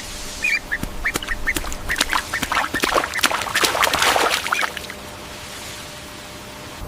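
Farm fowl calling in a rapid flurry of short, sharp calls that stops after about four and a half seconds.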